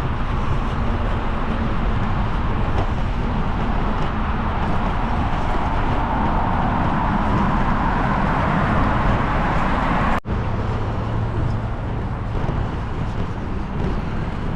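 Steady road noise of traffic mixed with wind on the microphone during a mountain bike ride, with a brief dropout about ten seconds in.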